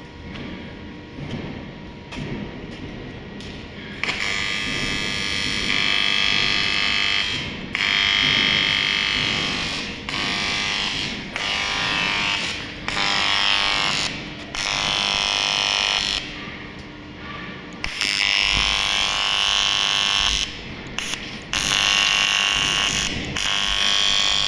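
AC TIG welding arc on aluminium buzzing harshly, struck and broken off repeatedly from about four seconds in, each run lasting one to a few seconds.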